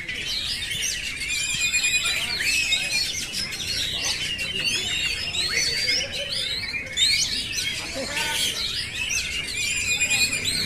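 Oriental magpie-robin (kacer) singing a continuous, fast-changing run of whistles, trills and chatter.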